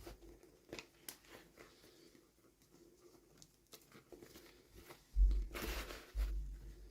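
Toy packaging being handled, with scattered small clicks and taps, then a brief louder tear or crinkle of wrapping about five and a half seconds in, with low bumps as the package is knocked.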